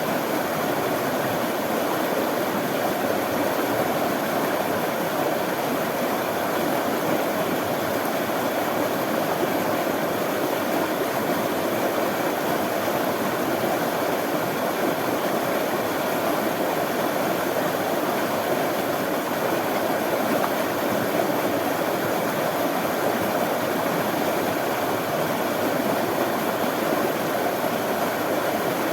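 Running water, a stream flowing with a steady, unbroken rush.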